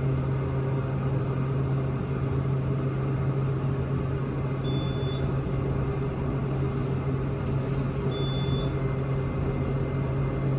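Montgomery traction elevator car travelling upward, a steady low hum with even running noise. Two short high beeps sound about five and eight seconds in.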